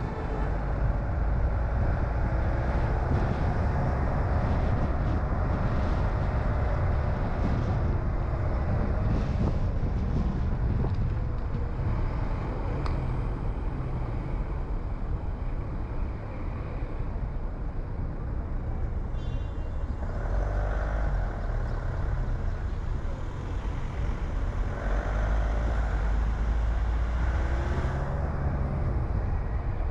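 Car engine and tyre noise while driving on town streets: a steady low rumble, with the engine note rising and falling as the car speeds up and slows.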